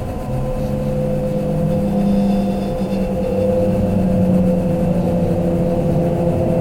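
Electric limited-express train heard from inside the car, its traction motors whining as it pulls away and gathers speed. Several steady tones and slowly rising ones run over a rumble of wheels on track.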